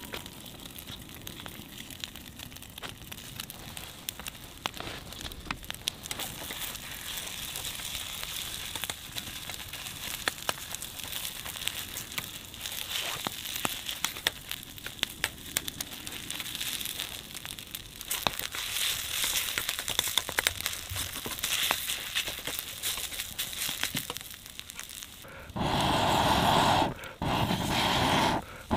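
Egg and rice frying in a pan over a wood fire: a steady sizzle with scattered crackles and the ladle scraping and stirring. Near the end a much louder hiss comes in and breaks off sharply twice.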